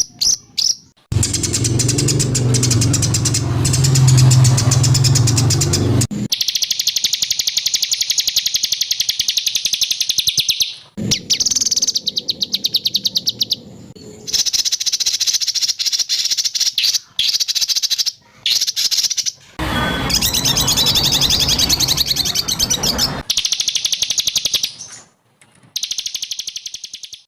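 Edited bird-song training recording: a run of spliced clips of songbirds giving very fast repeated high-pitched trills and harsh 'shot' calls. The clips start and stop abruptly, with a lower, denser harsh stretch a few seconds in and another harsh stretch past the middle.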